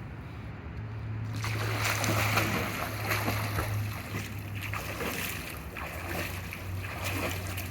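Pool water splashing and sloshing as someone swims, louder from about a second in, over a steady low hum.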